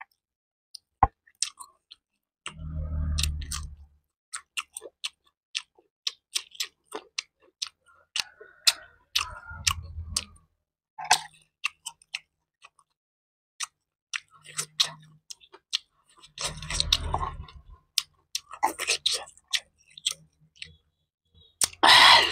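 Close-miked eating: wet chewing with many sharp mouth clicks, and low rumbling spells three times as the food is worked in the mouth. A loud breathy burst comes near the end.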